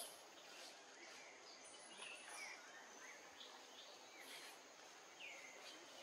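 Faint outdoor ambience with a steady high hiss and a few scattered short bird chirps, the clearest about five seconds in.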